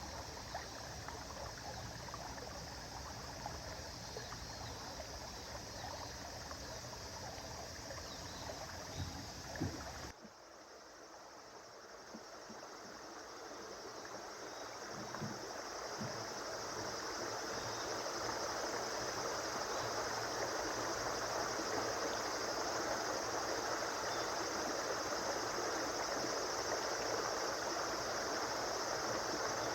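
River water flowing in a steady rush. About ten seconds in it drops suddenly to a quieter wash and swells back up over the next several seconds, with a few faint low knocks.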